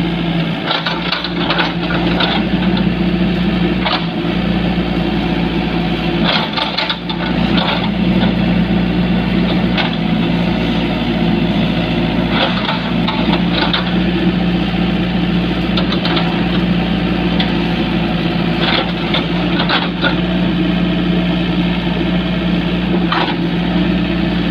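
Heavy-equipment engine running steadily at a constant speed, with occasional short knocks and clanks on top.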